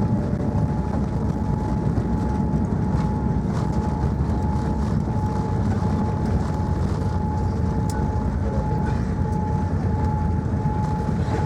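Steady cabin noise inside a Boeing 787-9 airliner: an even rumble of engines and airflow with a thin, steady whine above it.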